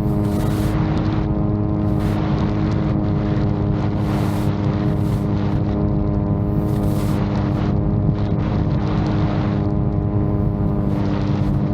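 VTOL drone's propellers running at a steady, unchanging pitch, with wind gusting against the microphone every couple of seconds.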